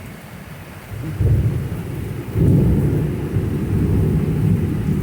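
Thunder rumbling in a severe thunderstorm: a deep rumble that comes in about a second in and swells louder about two and a half seconds in, over steady heavy rain.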